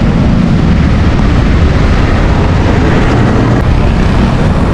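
Wind rumbling loudly and steadily on an action camera's microphone while cycling on the road.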